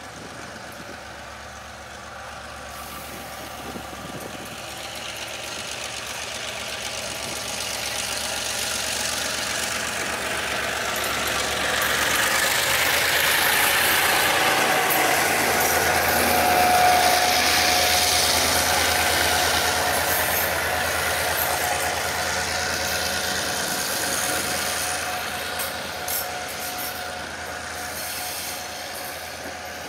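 A train passing: its running noise builds, is loudest about halfway through, then eases off, over a steady low engine hum. A thin steady high tone joins in about halfway and holds as the train moves away.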